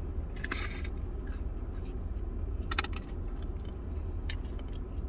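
Close-up chewing of a fried chicken sandwich, with a few short crisp crackles about half a second, nearly three and just over four seconds in, over a steady low hum.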